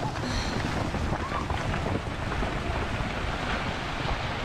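Wind buffeting an outdoor camera microphone: a steady, dense rushing noise with a heavy low rumble.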